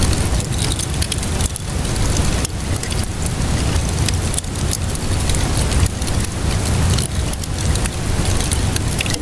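Wood fire crackling with many small pops, over a steady hiss of rainfall and a low rumble.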